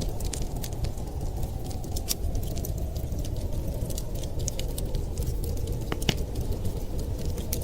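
Wood fire crackling with many small sharp pops, a couple of louder pops about six seconds in, over a steady low rumble of winter storm wind.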